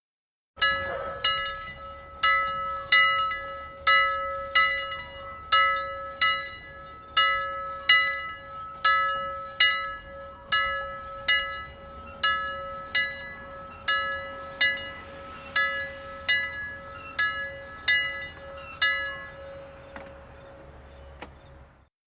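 An alarm bell struck over and over, about one and a half strokes a second, each stroke ringing with several clear tones that die away, over a steady ringing hum. The sound starts about half a second in and fades out near the end.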